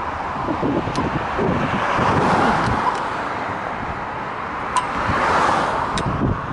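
Wind rushing over a head-mounted camera's microphone while cycling, swelling about two seconds in and again about five seconds in, with a few sharp clicks.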